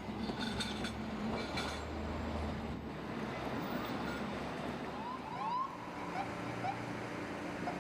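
Busy street traffic with a fire engine's electronic siren giving several short rising-and-falling whoops in the second half.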